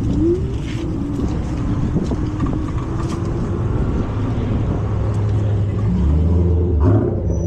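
Road traffic: motor vehicle engines running, with one growing louder near the end.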